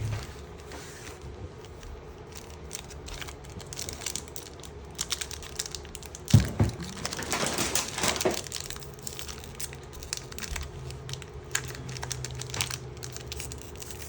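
Plastic and foil wrapping of Pokémon card booster packs crinkling as it is handled and opened, with scattered crackles and a louder, denser burst of crinkling a little past halfway.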